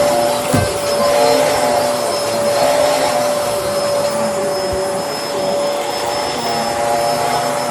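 Bissell Helix upright vacuum cleaner running: a steady motor whine over the rush of air, with a couple of soft bumps.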